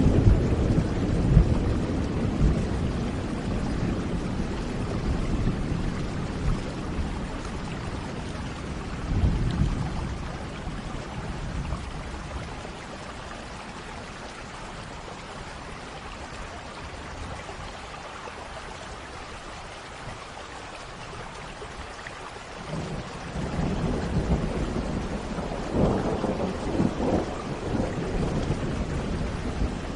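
Thunderstorm: steady rain falling, with rolls of thunder. A rumble dies away at the start, another comes about nine seconds in, and a longer rumble builds from about twenty-three seconds with sharper crackling peaks.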